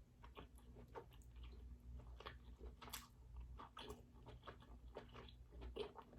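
Faint, close-miked chewing of king crab meat: soft, irregular mouth clicks and smacks.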